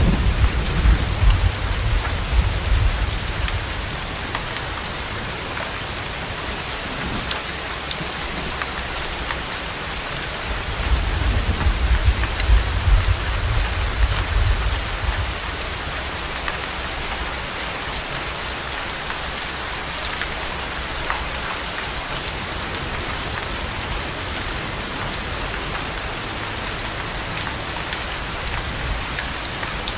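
Steady heavy rain falling, with a low roll of thunder fading out in the first few seconds and another rumbling roll about ten seconds later.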